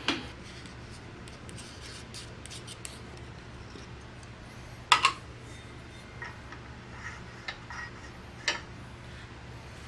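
Scattered clicks and knocks of metal lathe parts being handled on the jack shaft assembly, with a loud double knock about halfway through, over a low steady hum.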